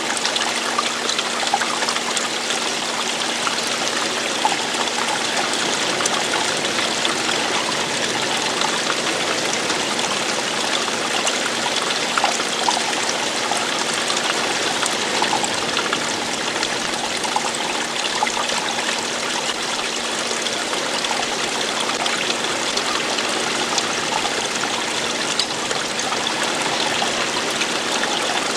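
Running water falling and splashing, a steady rushing trickle with small splashes throughout.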